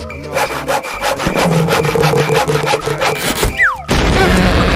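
Sawing through wood: a quick run of rasping back-and-forth strokes, followed by a short falling whistle and a loud noisy stretch near the end.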